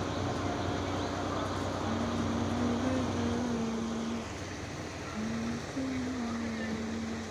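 Tractor engine running steadily, fading down about four seconds in, with a song's melody of long held notes playing over it.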